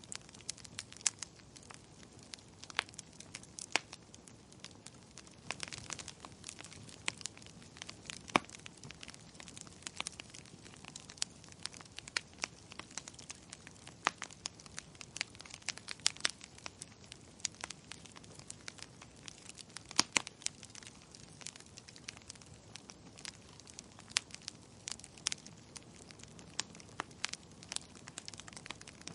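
Fire in a fireplace crackling, with irregular sharp pops and snaps over a soft steady hiss, a few pops louder than the rest.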